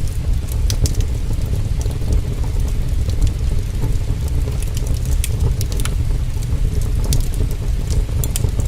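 Heavy rain and wind as a steady low rumble, with the sharp crackles and pops of a wood fire scattered irregularly through it.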